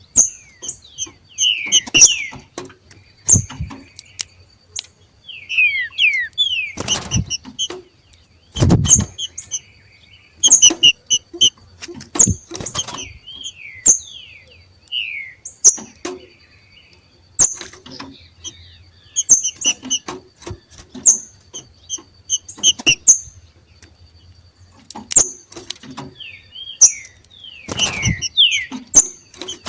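Two green-winged saltators (trinca-ferro) giving their 'macheado' calls: quick strings of sharp chirps and short falling slurred notes, stopping and starting in irregular bursts. A couple of low thumps come about seven and nine seconds in.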